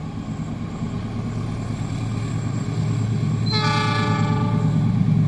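Train approaching a level crossing, its low rumble growing louder, and the locomotive sounding its horn with a blast of about a second, about three and a half seconds in.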